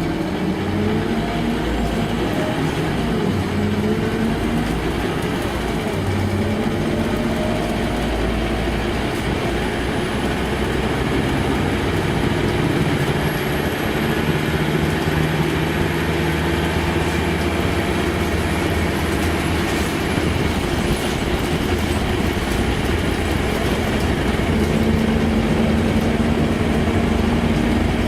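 Scania K230UB single-deck bus's diesel engine running as the bus drives along, its note rising and falling as it speeds up and changes gear, over steady road noise.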